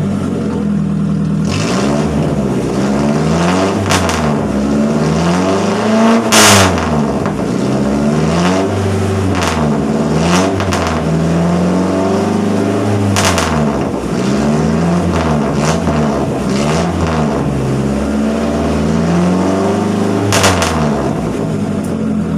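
An engine revved again and again through a loud aftermarket 'blar blar' exhaust, each blip rising and falling in pitch. A few sharp cracks come between the revs.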